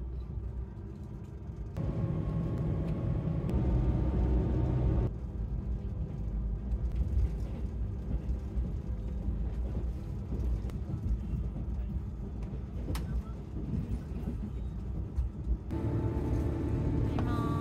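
Steady low rumble of the Yufuin no Mori diesel train running, heard from inside the passenger carriage, with a few faint clicks. The level and tone of the rumble shift abruptly a few times.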